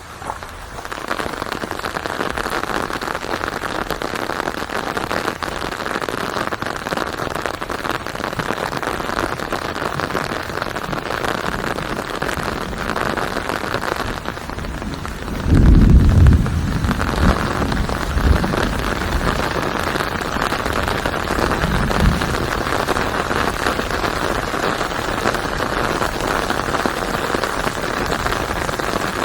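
Steady rain falling, with a low rumble of thunder about halfway through and a few fainter rumbles after it.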